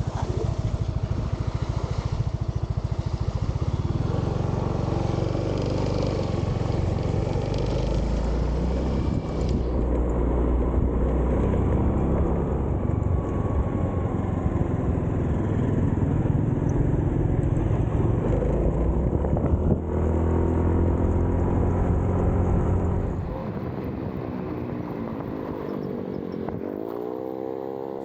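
Motorcycle running on the move, with heavy wind rumble on the camera's microphone. It drops in level about 23 seconds in.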